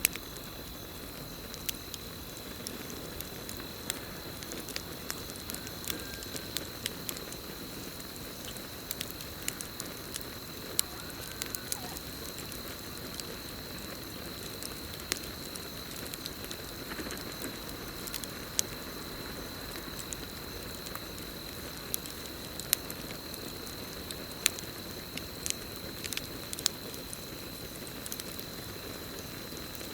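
Campfire burning, with irregular sharp crackles and pops over a low rush of flame, and a steady high-pitched cricket trill behind it.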